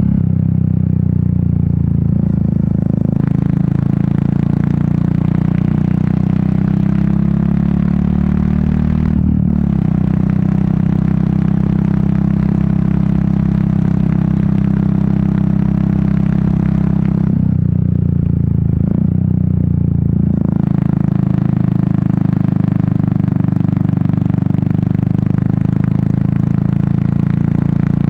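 Royal Enfield Meteor 350's single-cylinder engine and exhaust running steadily on the move, with wind rush. The note dips briefly about nine seconds in and again for a few seconds about two-thirds of the way through.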